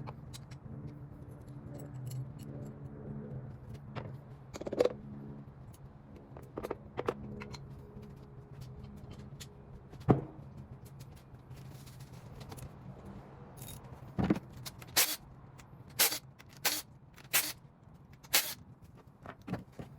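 Scattered clicks and knocks of handling, with a quick run of about six sharp clicks in the last few seconds, over a steady low hum.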